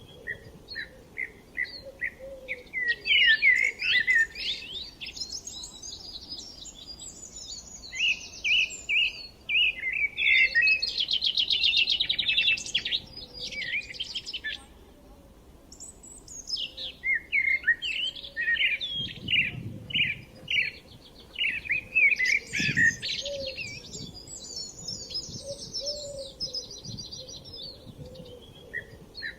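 Several songbirds singing and chirping together, with quick repeated chirps, fast trills and warbled phrases overlapping throughout.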